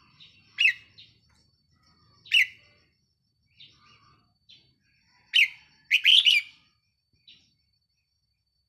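Red-whiskered bulbul, a caged decoy bird, giving loud short whistled calls, one at a time at first and then a quick run of several about six seconds in, with softer chirps between.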